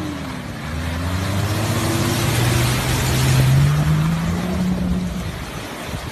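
An off-road vehicle's engine revving hard, its pitch climbing steadily for about four seconds under a loud rushing noise, then dropping away near the end.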